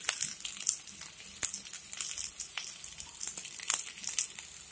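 Cauliflower florets frying in a little oil in a pan: a faint sizzle with irregular crackles and pops, several a second.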